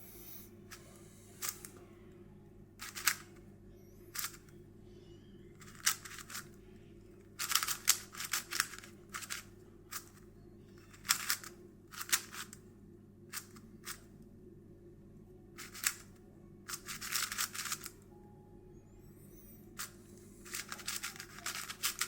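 X-Man Tornado V3 Premium 3x3 speedcube being turned by hand: single layer turns clicking, with several short runs of fast turning that make a dense plastic clatter.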